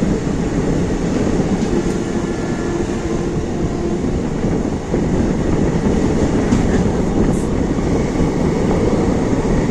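Express passenger train running along the track: a steady, loud rumble of wheels on rails, with a faint whine for a couple of seconds near the start.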